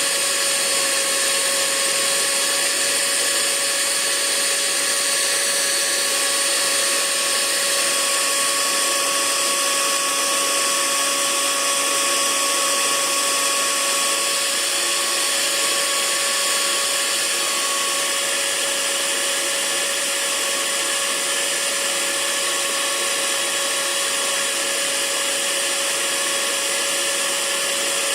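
Hair dryer running steadily: a continuous rush of air with an even motor whine.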